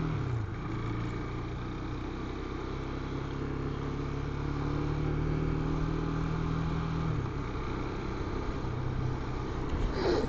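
Husqvarna Svartpilen 401's single-cylinder engine running on the road with wind noise, dipping in pitch just after the start and easing off about seven seconds in. A brief whoosh comes near the end.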